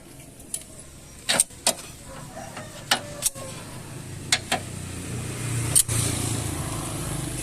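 A run of sharp knocks and clacks, about eight of them, over a low vehicle rumble that grows steadily louder from about halfway through.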